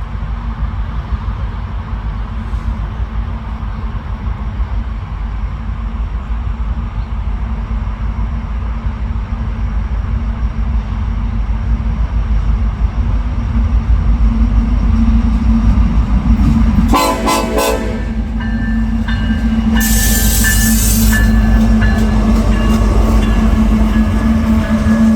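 Diesel freight train approaching with a steady low rumble that grows louder, then one horn blast of about a second roughly 17 s in. A short burst of high hiss follows a few seconds later.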